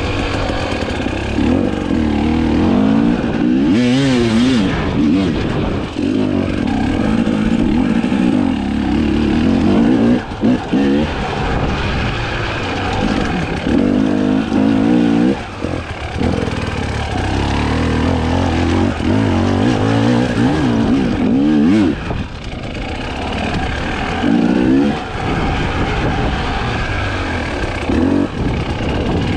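Husqvarna TE 300i's single-cylinder two-stroke engine revving up and down as the enduro bike is ridden over off-road terrain. The throttle is cut briefly a few times.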